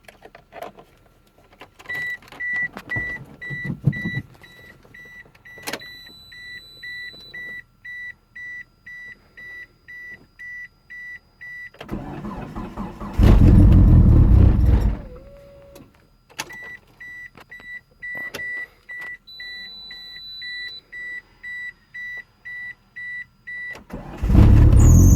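1998 Mitsubishi Eclipse GSX's dashboard warning chime beeping steadily at about two beeps a second, then the starter cranking the cold engine for about three seconds without it catching. The chime resumes, and a second crank begins near the end; the engine has sat for weeks.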